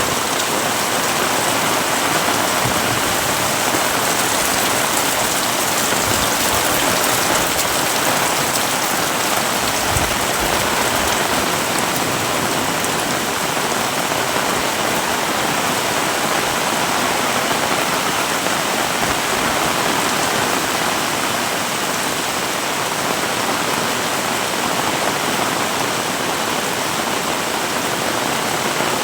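Heavy rain falling steadily, a dense, even downpour hissing on surfaces all around.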